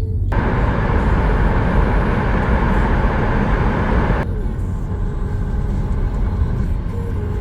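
Steady low rumble of a moving vehicle, with a louder rushing noise over it that starts abruptly and cuts off about four seconds in.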